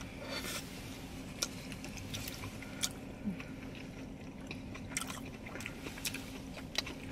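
Close-miked eating: chewing and biting, with scattered sharp crunches and clicks a few times a second apart, over a faint steady low hum.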